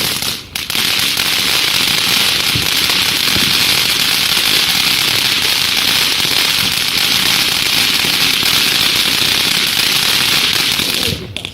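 A lit ground firework spraying with a continuous loud hiss and crackle. It falters briefly half a second in and cuts off shortly before the end.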